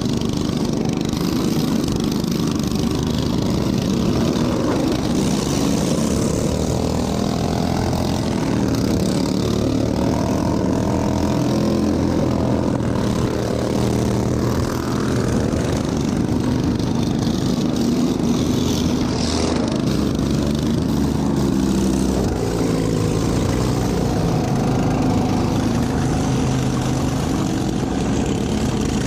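Racing lawn tractor engine running hard and steadily, its pitch shifting up and down a little as the throttle and load change.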